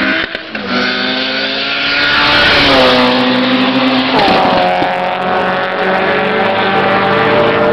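A car engine at full throttle accelerating away on a quarter-mile drag run, its pitch stepping at gear changes about two and a half and four seconds in.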